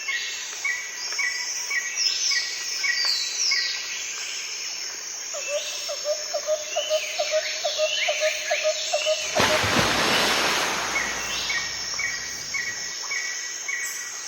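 Several birds singing together: one short chirp repeats about twice a second among falling whistled notes and quick trills. About nine seconds in, a loud rushing noise lasts roughly two seconds.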